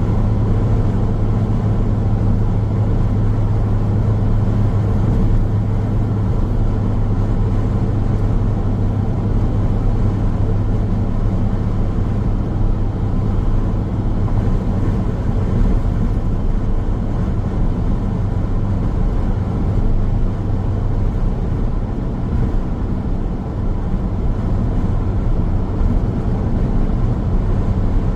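Steady road noise of a car driving on a highway: tyre and engine rumble with a low, even drone.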